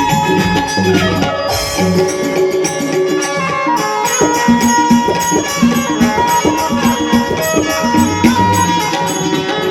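Instrumental Indian-style music: a melody played on an Indian banjo, stepping between held notes over a steady percussion rhythm.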